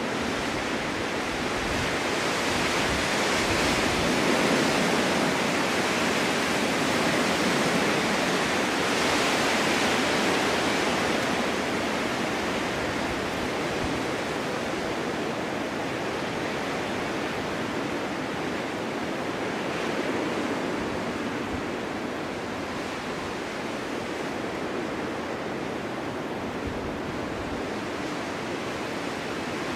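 Winter storm wind blowing steadily, a dense rushing noise that swells for the first several seconds and then eases a little, without any breaks.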